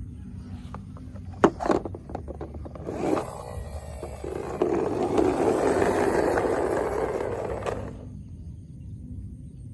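A few sharp knocks, then a rough scraping noise that swells and holds for about three seconds before dying away.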